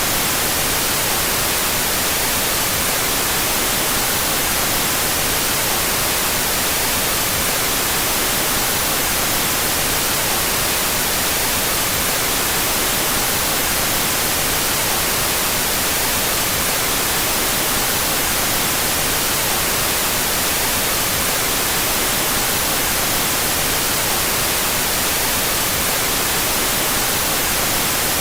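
Out-of-phase stereo white noise: a steady, unchanging hiss, strongest in the high range.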